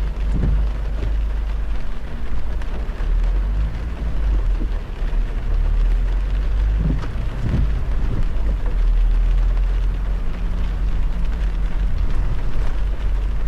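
Heavy rain hitting a moving car over a steady low road rumble, with a few brief swells.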